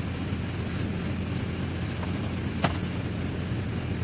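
A steady low mechanical drone, engine-like, with one sharp click a little past halfway through.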